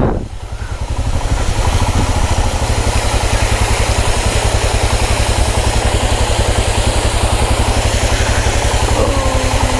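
Royal Enfield Himalayan's single-cylinder engine idling at a standstill, a steady even beat, under the hiss of water falling down a small roadside waterfall just ahead.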